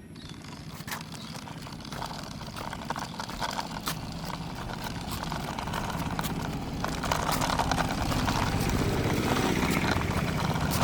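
A vehicle motor running steadily with scattered clicks, growing gradually louder over several seconds.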